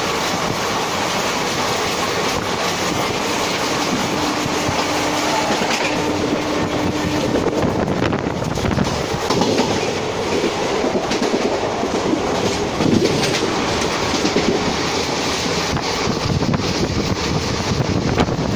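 Train running at speed, heard from its open doorway: a steady rumble with wheels clattering over the rail joints, while open freight wagons rush past on the next track. A thin steady tone sounds over the first seven seconds or so, then stops.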